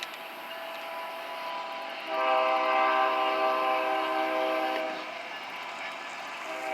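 Locomotive air horn blowing a chord of several steady tones. It sounds softly at first, then gives a long loud blast of about three seconds starting about two seconds in, and another blast begins near the end.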